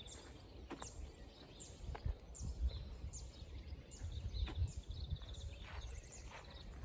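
A small bird calling over and over outdoors: short, thin, high notes that each fall in pitch, repeated a little more than once a second, over a faint low rumble.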